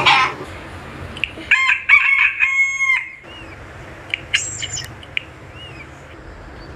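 A bird crowing like a rooster: a loud call in three linked parts lasting about a second and a half, starting about a second and a half in. A few short, high chirps follow.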